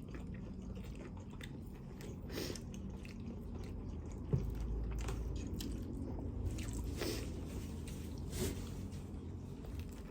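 Close-up eating of crispy fried chicken lollipop: biting and chewing, the breaded coating crackling and crunching in scattered bursts. A single sharp knock about four seconds in.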